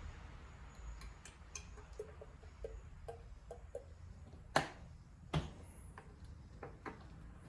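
Small clicks and taps from handling a chainsaw while refilling it, with two sharper knocks about halfway through.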